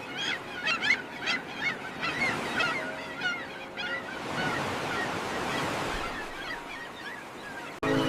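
Birds calling in quick short notes over surf. The calls are thickest in the first few seconds, then a wave swells and washes through.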